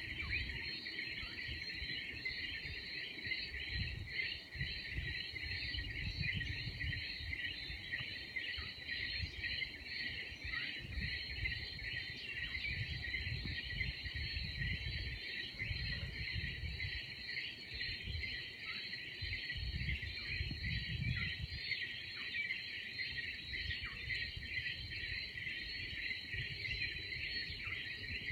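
Dense chorus of tree frogs after rain, a continuous high-pitched peeping mass with occasional short downward chirps standing out. An irregular low rumble comes and goes underneath.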